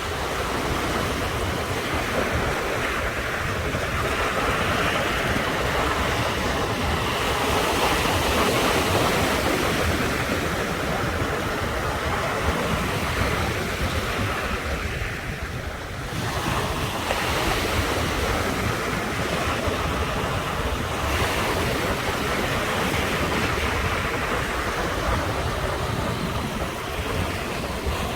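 Ocean surf: waves breaking and washing ashore in a continuous hiss that swells and eases, dipping briefly about halfway through before building again.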